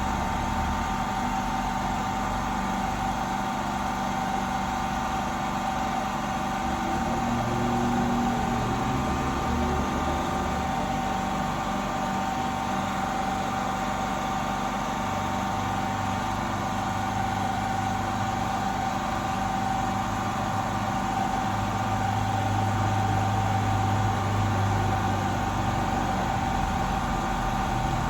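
A steady mechanical hum with a constant mid-pitched tone over a noisy hiss, unbroken throughout.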